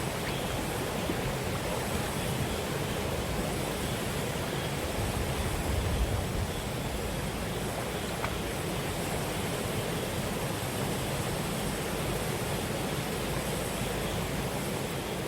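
Steady rush of a clear mountain stream flowing over rocks, with no pauses or changes.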